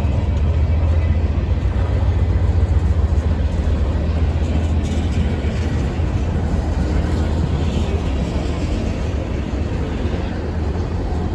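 Diesel locomotive running with a steady, loud low rumble, easing slightly near the end.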